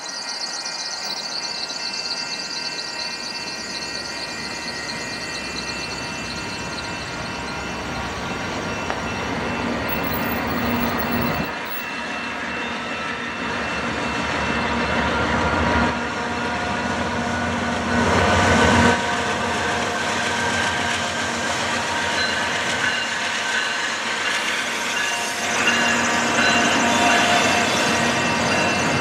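Canadian Pacific diesel locomotive approaching and crossing a level crossing at the head of a double-stack intermodal container train, growing louder as it comes, over the steady ringing of the crossing signal's bell.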